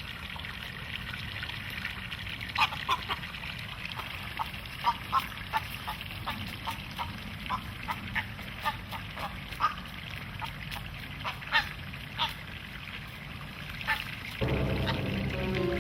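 Juvenile heron, which the handler takes for a great blue heron, giving short honking calls again and again at irregular intervals over faint trickling water. Music comes in near the end.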